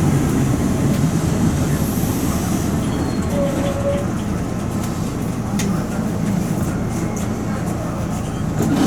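An Eizan Electric Railway train running on the Kurama Line, heard on board: a steady rumble of motors and wheels on rail. There is a brief high note about three and a half seconds in and a few sharp clicks near the end.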